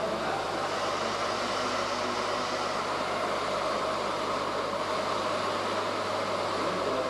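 Small mini bike engine running steadily at an even pitch.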